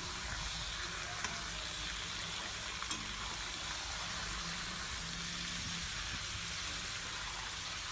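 Raw chicken pieces sizzling steadily in hot mustard oil with fried onions in a kadai on a high flame, while a metal spatula stirs them, with a faint clink or two.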